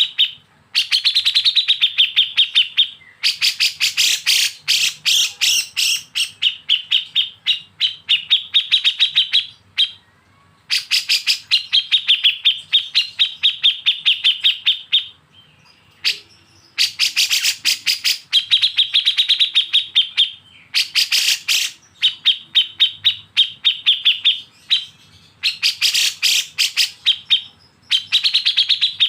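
Bulbul song of kapas tembak and cucak jenggot: loud, fast chattering runs of repeated sharp high notes, about eight to ten a second, in bouts of a few seconds with short breaks between.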